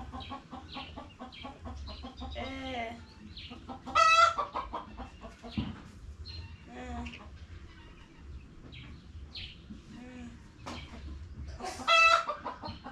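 Chickens clucking and peeping, with two loud squawks: one about four seconds in and one near the end.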